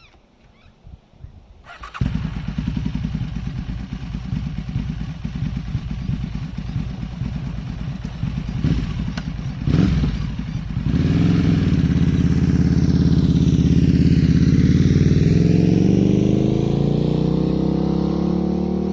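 Aprilia Tuono motorcycle engine starting up about two seconds in and running steadily at idle. Near the middle there is a brief blip, and then it runs louder with the pitch slowly climbing as the revs rise.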